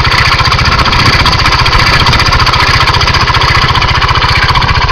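Engine running steadily with a fast, even knocking beat, shown as an example of a connecting-rod knock (worn rod bearing).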